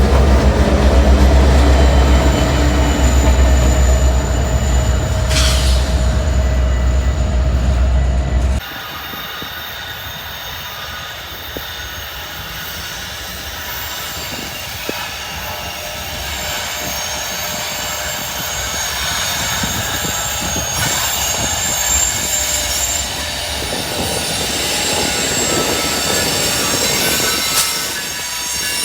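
Metra commuter train passing: the locomotive's diesel engine drones loudly, then drops away suddenly about eight seconds in, leaving the passenger cars rolling by with steady high-pitched wheel squeal.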